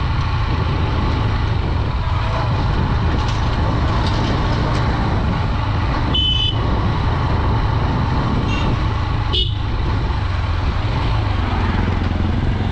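Honda Dream 110 commuter motorcycle riding along at a steady pace, with the engine and road noise running evenly. Short vehicle horn toots about six seconds in and again around nine seconds.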